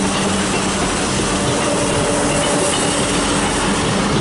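GWR passenger train passing over a level crossing, its wheels rolling on the rails with a steady hum.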